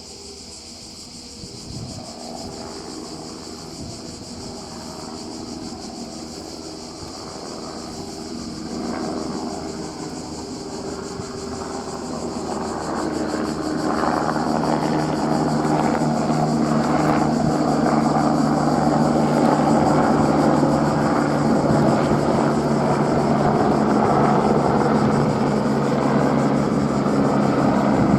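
Airbus AS350 helicopter's rotor and turbine approaching, growing steadily louder over the first half, then passing close and loud. Insects keep up a steady high chirring underneath.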